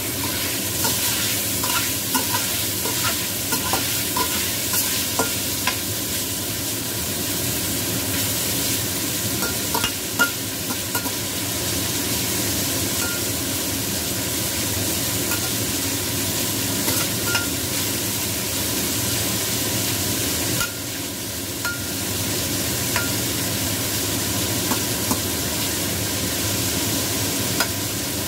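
Diced chicken sizzling in a stainless steel pan, with a steady frying hiss. A metal utensil scrapes and clinks against the pan as the pieces are stirred; the clinks come most often in the first ten seconds.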